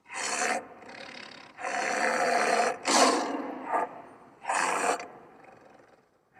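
Siberian tiger growling in a string of about five harsh bursts, the longest about a second, with quieter breathing between them.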